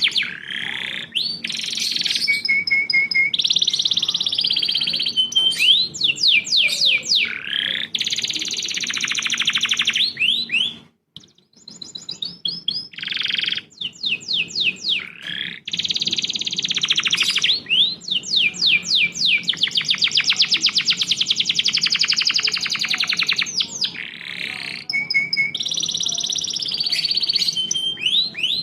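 Recorded songbird song: loud, continuous fast trills and runs of repeated sweeping whistle notes, broken by a brief gap about eleven seconds in, with much the same sequence of phrases coming round again in the second half, as in a looped recording. A faint steady hum runs underneath.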